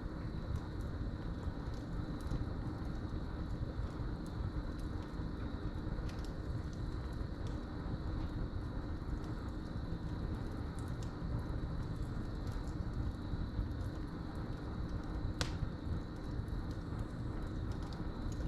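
Wood fire crackling in a fireplace, with scattered small pops and one sharp pop about three quarters of the way through, over a steady low rumble. Crickets trill steadily throughout.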